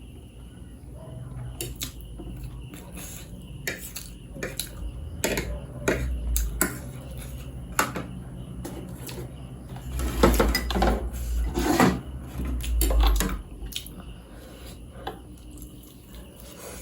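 Eating utensils clinking, tapping and scraping against a plate or bowl in irregular knocks, with louder handling noise in two stretches in the middle.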